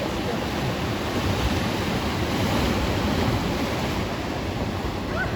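Sea surf washing onto the shore, a steady rushing noise, with wind on the microphone.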